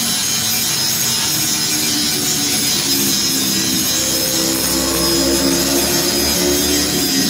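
Two-stroke motorcycle engine running through a round expansion-chamber exhaust, with a rasping, chainsaw-like note whose pitch steps up a little about halfway through.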